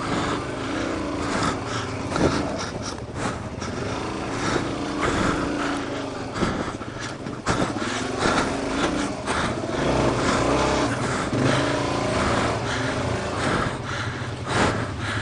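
Suzuki DR-Z400's single-cylinder four-stroke engine running at low speed up a rocky climb, its revs rising and falling under throttle, with frequent knocks and clatter from the bike over rocks.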